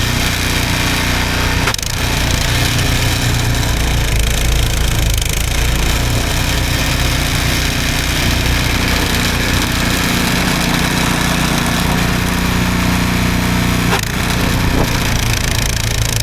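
Snowblower's small gas engine running steadily under load, with a brief dip about two seconds in and again near the end.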